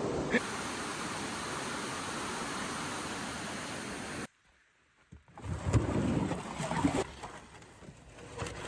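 Steady rushing water and wind noise, cut off suddenly about four seconds in; after a second of silence, uneven louder sloshing sounds of water come and go, then ease off.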